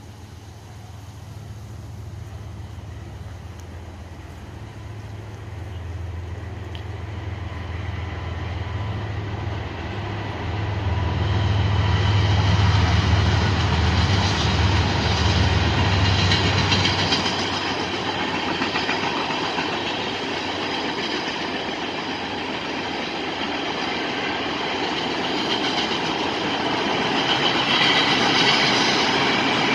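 Freight train passing: a deep low rumble builds and stops a little over halfway through, while the rolling, clattering noise of freight cars' wheels on the rails grows louder and carries on.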